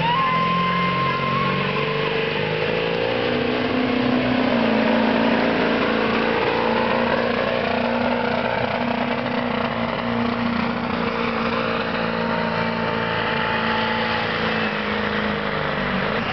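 Ford diesel pickup at full throttle pulling a weight sled, its engine running hard and steady under heavy load. A high whistle comes in near the start, and the engine's pitch climbs a few seconds in and then holds.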